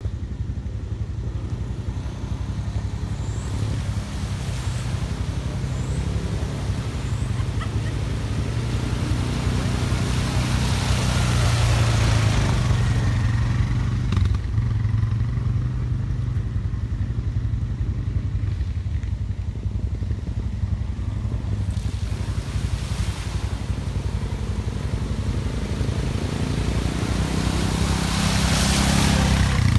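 ATV engine running at low speed throughout, growing louder with a noisy rush a few times, about a third of the way in and again near the end.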